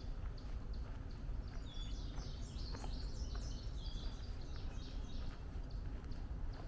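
Woodland birds singing: a rapid jumble of high notes from about one and a half to four seconds in, over repeated short high chirps. The walker's steady footsteps on the trail run underneath.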